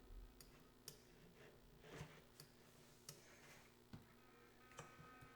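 Near silence with faint, irregular clicks, about seven over five seconds, over a low steady hum.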